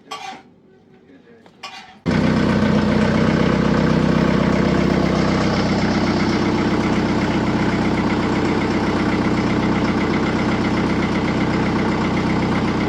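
Truck engine running steadily, starting abruptly about two seconds in after a short quiet stretch.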